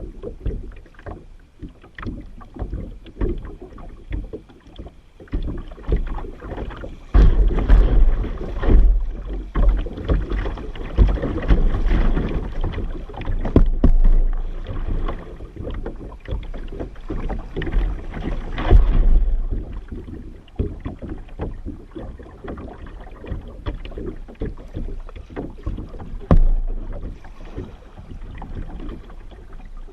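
Kayak on the water: paddle and water sounds with many small knocks and clicks against the hull, and wind buffeting the microphone in gusts.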